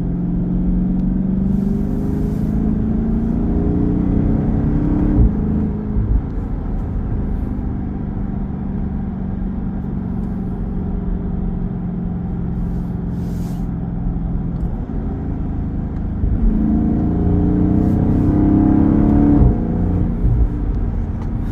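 2023 Chrysler 300C's 6.4-litre HEMI V8 accelerating hard, its pitch rising, then dropping sharply as it shifts up about five seconds in. It settles into a steady cruise, then pulls hard again with rising pitch and shifts up once more near the end.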